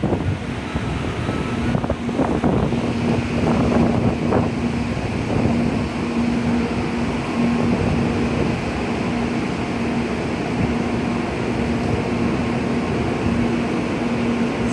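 Steady rushing noise of typhoon wind and rain with a constant low hum, and a few short knocks two to four seconds in.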